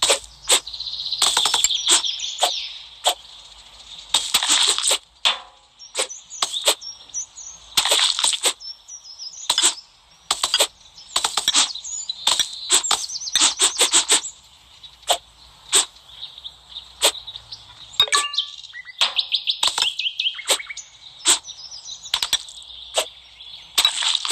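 Crisp slicing and crunching: a long run of sharp cuts and snaps, some in quick clusters, over a steady crackling hiss.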